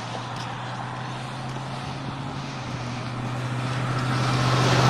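A motorcycle approaching on a wet road: a steady low engine drone with a hiss that grows louder toward the end as it draws near.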